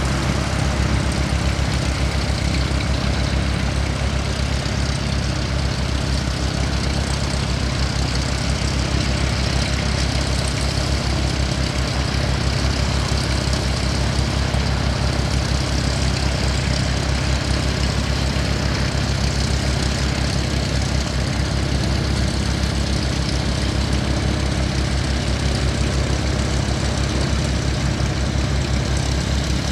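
Aircraft engines running steadily at low power, a continuous even drone with a deep low rumble and no rise or fall.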